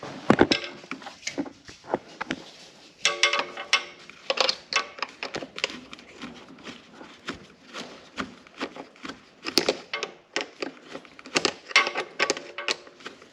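Pliers clicking and knocking on hose clamps and the plastic air cleaner housing as the clamps are loosened and the intake hose is worked off, with brief squeaks about three seconds in and again near the end.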